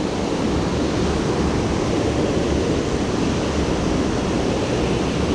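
Water pouring over a low dam as a man-made waterfall: a steady rushing of falling water.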